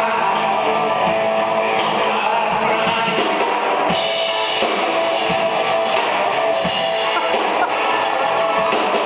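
Rock band playing live at a sound check: electric guitar over a drum kit, with steady, regular cymbal strikes.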